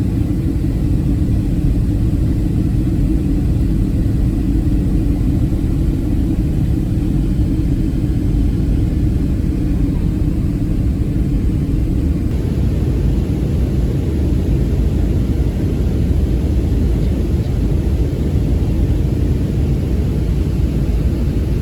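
Airliner cabin noise: a loud, steady rumble of jet engines and airflow, with a low hum under it and a slight change in the hiss about halfway through.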